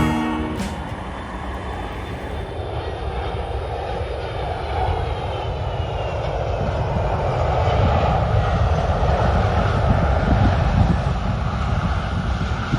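Jet airliner passing low overhead on approach to land. Its engine noise swells to a peak over several seconds, with a rumble underneath and a whine that falls in pitch as the aircraft goes by. Music cuts off at the very start.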